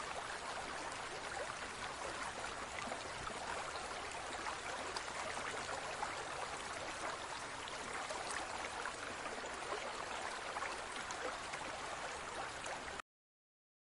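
Underwater ambience: a steady hiss with faint scattered clicks and crackles, cutting off suddenly near the end.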